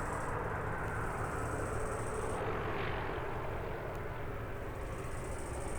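Light propeller aircraft's piston engine running steadily, a continuous drone with a low hum.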